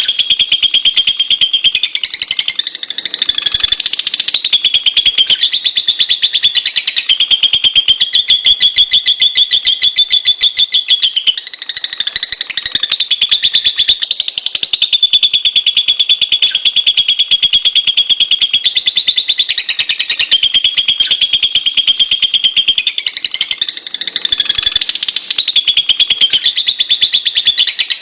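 Lovebird calls: a continuous, rapid, high-pitched chatter of repeated chirps.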